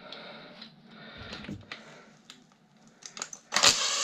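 Light clicks and rattles of plastic and metal desk-fan parts being worked apart with a screwdriver, then a loud harsh scraping noise for about a second near the end.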